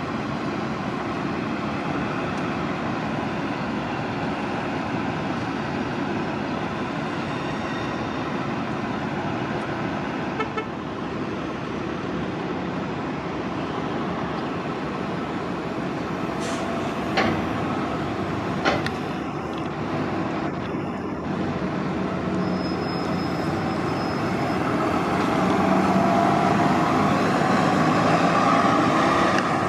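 City transit buses running at a bus terminal, a steady engine and traffic noise with a few sharp knocks about halfway through and a brief high-pitched tone later on. It grows louder near the end as a bus comes close.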